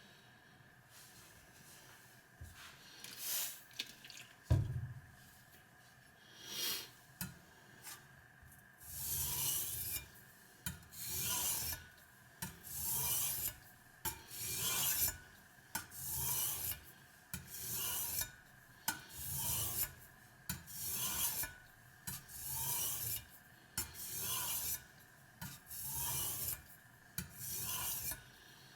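Kitchen knife blade scraping across a wet Spyderco medium-grit aluminium oxide bench stone in sharpening strokes. A few scattered strokes and a single knock come first; from about a third of the way in, the strokes settle into a steady rhythm of roughly one per second.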